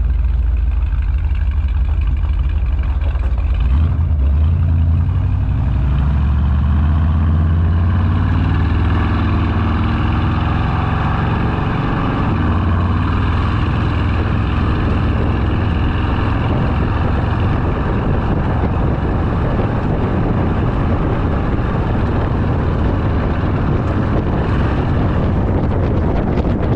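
Chevrolet C10's small-block 350 V8, heard from inside the cab while driving, through its old 2-inch exhaust with knockoff mufflers. The engine note climbs as it accelerates about four seconds in, then settles into a steady cruise.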